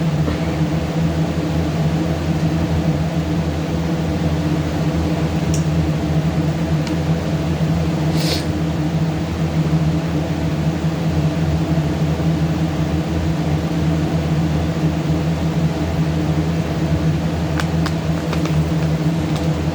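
A steady low mechanical hum with several held tones, and a short hiss about eight seconds in.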